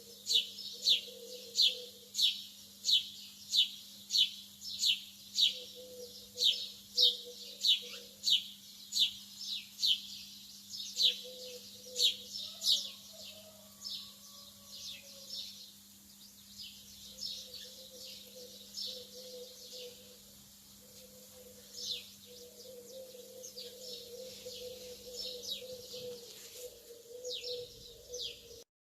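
Lovebirds chirping: a fast run of sharp, high, falling chirps about two a second, turning fainter and sparser about halfway through.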